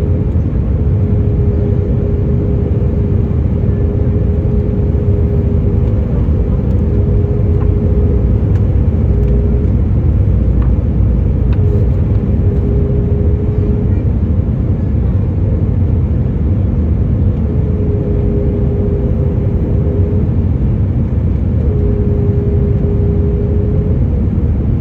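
Steady low rumble of a Boeing 737's engines and airflow heard inside the cabin, with a thin humming tone that comes and goes several times.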